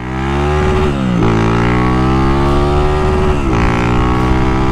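Honda Titan 2000 motorcycle with a 240cc OHC single-cylinder engine and GRS exhaust, accelerating hard through the gears. The revs climb steadily, drop sharply at an upshift about a second in, climb again and drop at a second upshift about three and a half seconds in, then start climbing again.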